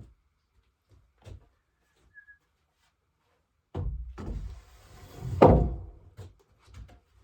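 A few light knocks, then about two seconds of scraping with a heavy thump near its end, followed by more light knocks: timber or logs being moved and knocked about during log-cabin building work.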